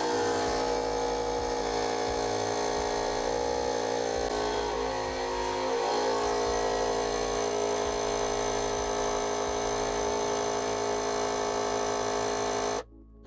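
A small motor running at a steady whine, then cutting off abruptly near the end.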